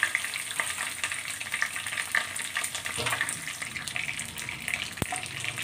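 Chicken pieces sizzling and crackling in hot oil in a kadhai, with metal tongs lifting them out. A sharp click comes about five seconds in.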